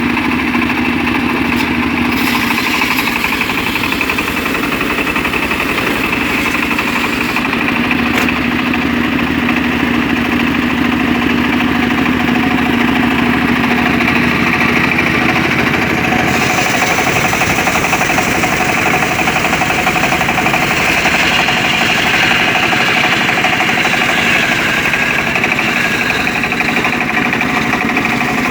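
Engine-driven homemade circular saw rig running steadily while ripping mahogany, its tone shifting to a brighter sound about 16 seconds in.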